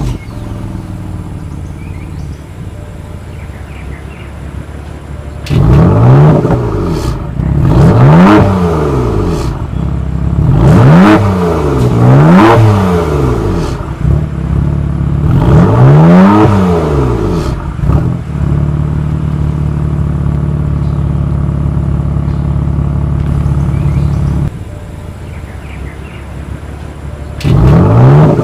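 2015 BMW M4's 3-litre twin-turbo inline-six idling just after start-up, then free-revved about five times in quick blips through the exhaust. It then holds at a steady raised speed for about six seconds, drops back to idle, and is revved again near the end.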